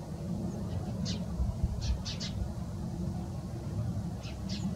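Small birds chirping, short high notes in little clusters of two or three, over a steady low rumble, with one low bump about one and a half seconds in.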